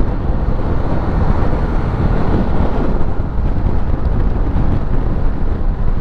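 Heavy wind buffeting on the microphone of a motorcycle riding at speed, a loud, steady rumble with no clear engine note.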